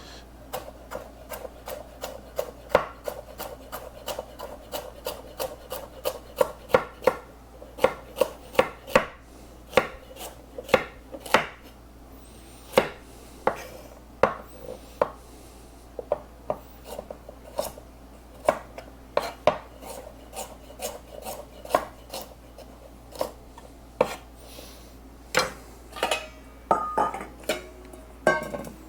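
Kitchen knife chopping carrots on a cutting board: a long run of sharp, irregular taps, about two or three a second.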